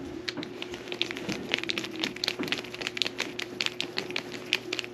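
Quick, irregular small clicks and taps, several a second, from plastic drain-hose parts being fitted by hand, over a steady low hum.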